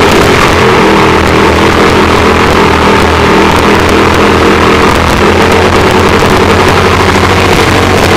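Fire pump engine running loud and steady, holding an even speed during an engine test.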